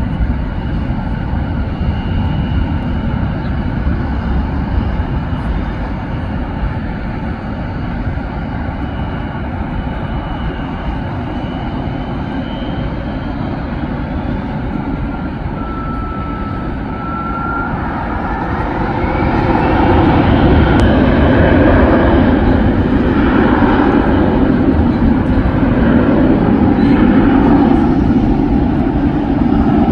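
Airplane engines building up as an aircraft approaches, getting louder about two-thirds of the way in, with a rising whine.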